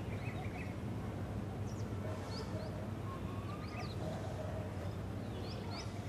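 Several short, high bird chirps scattered over a steady low rushing noise, with a brief lower whistled note about halfway through.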